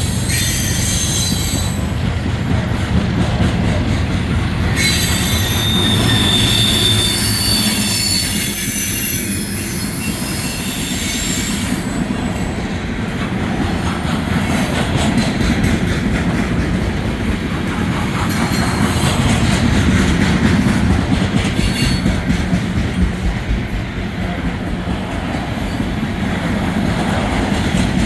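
Freight train cars rolling past with a steady, loud rumble and clatter of steel wheels on rail. High-pitched wheel squeal rings out for several seconds near the start.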